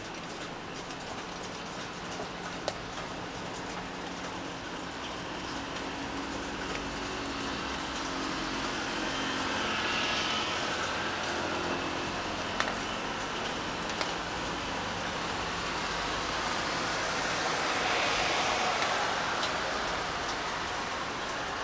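Steady rainfall, with two passing vehicles that swell up and fade away, one peaking about halfway through and the other near the end.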